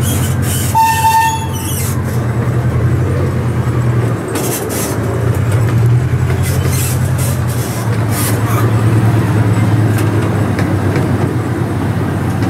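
Open-car park ride train running along its track: a steady low engine drone with occasional clatter from the cars. A brief high tone sounds about a second in.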